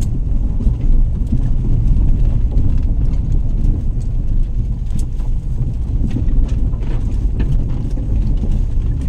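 Steady, loud low rumble with scattered light clicks.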